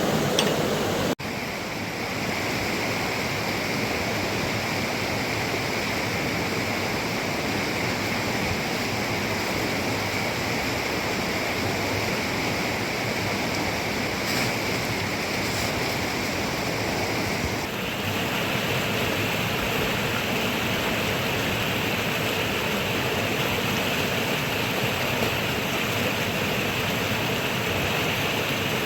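Steady rushing of water with no let-up. The sound drops out for an instant about a second in, and its hiss shifts slightly higher in pitch about two-thirds of the way through.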